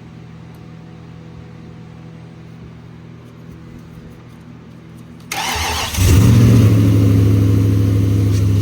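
Nissan Titan V8 cranking and firing on its first start after a no-spark repair. After about five seconds of a low steady hum, the starter cranks briefly and the engine catches at about six seconds in. It flares up, then settles into a loud, steady run.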